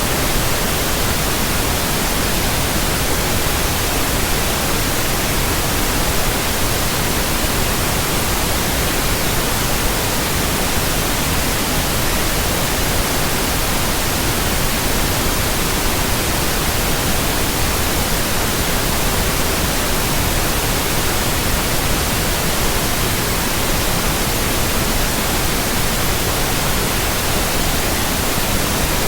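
Steady, unchanging electronic white noise: an even hiss across the whole range of pitches, with no rhythm, tones or breaks.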